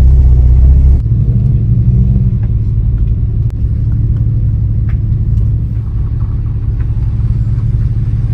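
A car engine running with a steady low rumble that shifts slightly about a second in.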